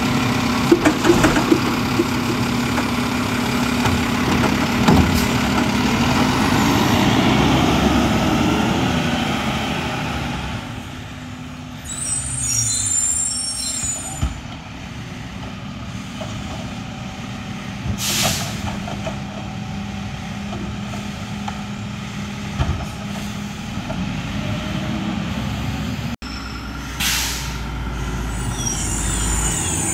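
Mack LR garbage truck's diesel engine running and revving for about the first ten seconds, then settling to a lower level. Two short air-brake hisses follow, one near the middle and one near the end.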